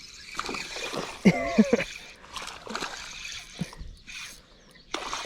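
Creek water splashing and trickling as a hooked smallmouth bass is played and landed. A short vocal exclamation comes about a second in.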